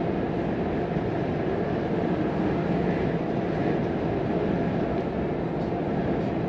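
Volvo FM 420 hp truck under way, heard from inside the cab: a steady drone of diesel engine and tyre and road noise, with no changes in pitch or level.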